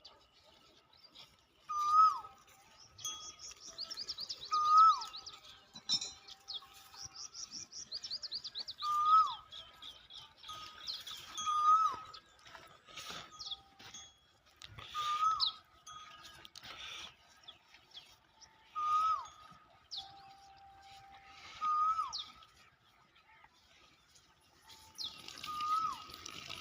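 Birds calling: one repeats a short call with a falling hook every two to four seconds, while others give quick runs of high chirps. A steady trickling hiss starts near the end.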